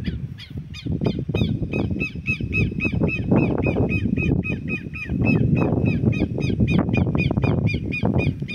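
A bird calling in a rapid, regular series of short high chirps, about four a second, over a loud low rumbling noise that swells and fades.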